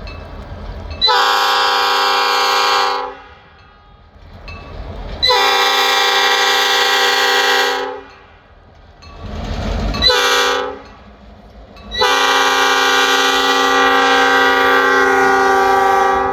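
Air horn of the lead locomotive, Escanaba & Lake Superior EMD GP38 No. 402, sounding the grade-crossing signal of two long blasts, one short and one long. A low train rumble fills the gaps between blasts.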